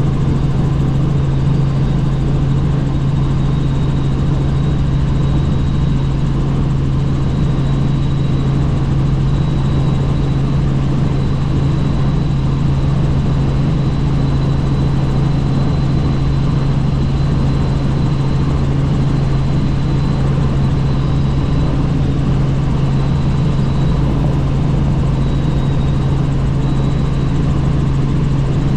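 Helicopter in cruising flight heard from inside the cabin: a steady, unchanging engine and rotor drone with a low hum and a faint high whine above it.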